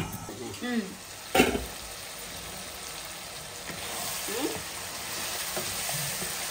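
Chicken in a thick masala gravy sizzling in a nonstick kadai while it is stirred with a wooden spatula, the liquid cooking down so the chicken can fry dry. One sharp clink about a second and a half in.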